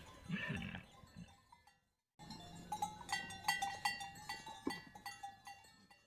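A livestock bell clanking, many quick strikes with a ringing metallic tone, starting about two seconds in after a brief silence.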